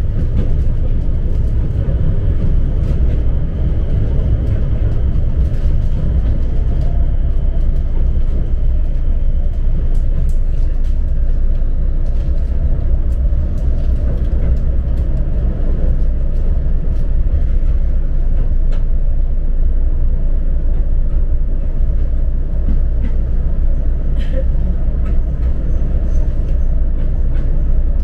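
Steady low rumble of a passenger train running along the line, heard from inside the carriage, with faint ticks scattered through it.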